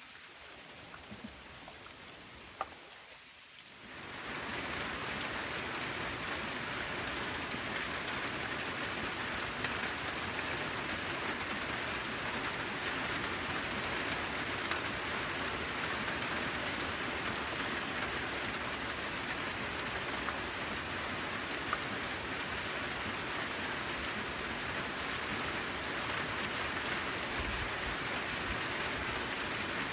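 Steady, dense rainfall with scattered drop ticks, coming in suddenly about four seconds in after a quieter, fainter hiss.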